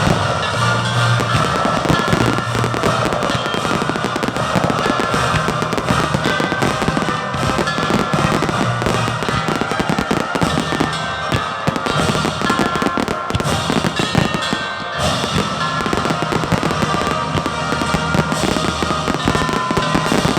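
Fireworks bursting and crackling in rapid, continuous succession over loud music.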